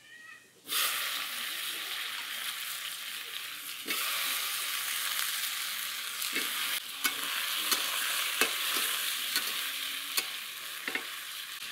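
Cut potatoes frying with browned onions in hot mustard oil in a metal wok (kadai), a steady sizzle that starts suddenly under a second in. A metal ladle clinks against the wok now and then as they are stirred.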